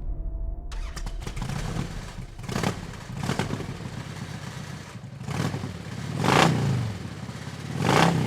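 Several motor vehicles passing by one after another, each engine swelling and then dropping in pitch as it goes past, the loudest passes about six and eight seconds in. Background music cuts off about a second in.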